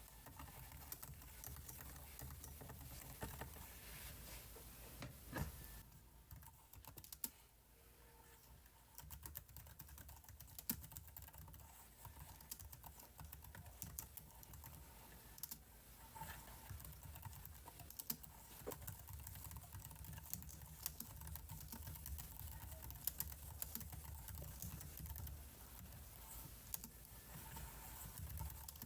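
Computer keyboard typing: irregular, fast keystroke clicks, thinning out for a few seconds about six seconds in.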